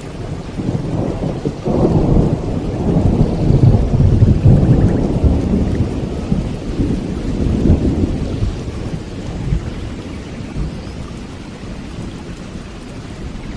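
Rolling thunder over steady rain: a low rumble swells about two seconds in, is loudest around the middle, and fades away over the next several seconds while the rain goes on.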